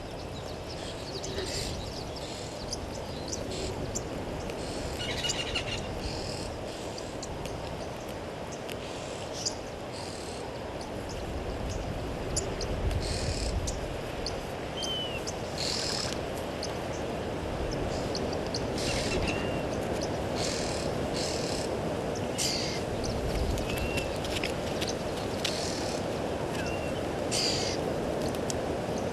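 Wild birds giving short, scattered chirps and a few brief whistled notes over a steady low background hiss.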